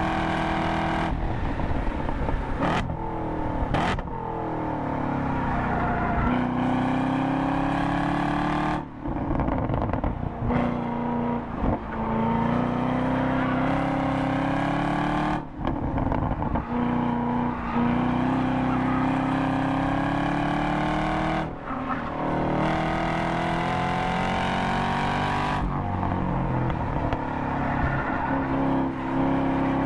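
Chevrolet Camaro's V8 heard from inside the cabin at track pace. The engine note falls as the car brakes and shifts down from fifth to third, then rises and falls through the corners, with several brief lifts off the throttle.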